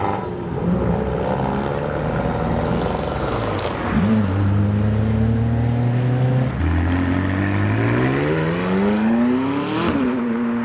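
Sports car engine accelerating away. It holds a steady note for a couple of seconds, then climbs in pitch for about three seconds and drops sharply at a gear change near the end, with a brief crackle shortly before the steady stretch.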